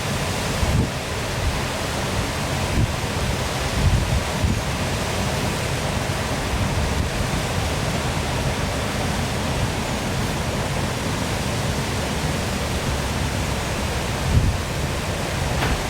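Waterfall rushing steadily, a constant full hiss of falling and splashing water with a deep low rumble under it. Brief low swells come a few times, about four seconds in and again near the end.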